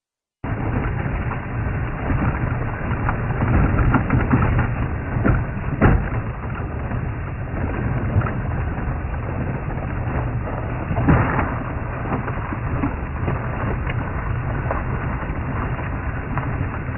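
Safari vehicle driving over a rough off-road track: a steady rumble of engine, tyres and wind on the microphone, with scattered knocks and rattles from bumps. It cuts in about half a second in, after a brief dropout of the stream's sound.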